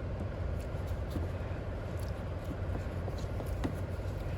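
Occasional light clicks and knocks of a mower's air cleaner housing being worked into place on the engine, over a steady low machine hum.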